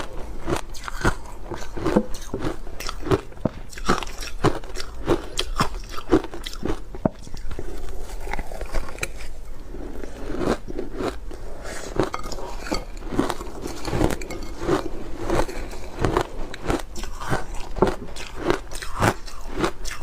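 A person biting and chewing ice: an irregular run of sharp crunches, two or three a second.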